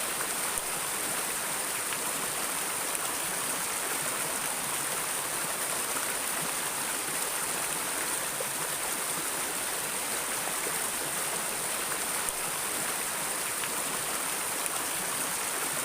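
Stream of water flowing steadily, an even rushing splash with no other sounds.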